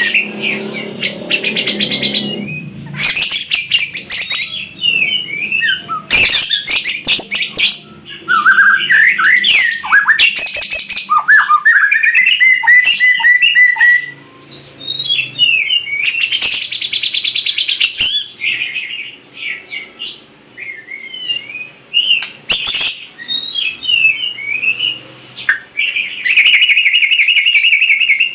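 A pet songbird singing a varied, loud song of rapid trills, quick chirps and sliding whistled notes, with a long steady trill near the end.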